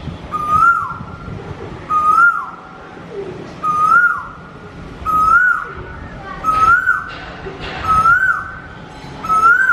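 A bird's whistled call repeated about every second and a half, each call a note that rises, holds briefly and then drops away.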